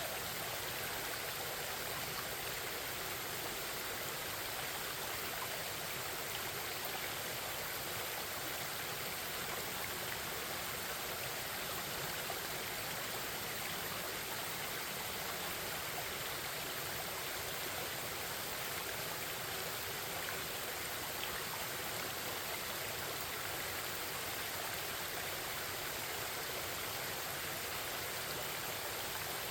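Forest stream running over rocks: a steady, even babble of flowing water.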